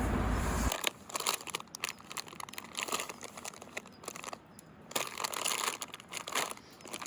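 Light, irregular crackling with many small clicks. A low rumbling noise stops under a second in.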